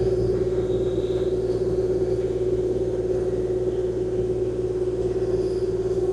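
Kubota KX040-4 mini excavator's diesel engine running steadily, a low rumble with a steady hum over it, heard from the operator's cab.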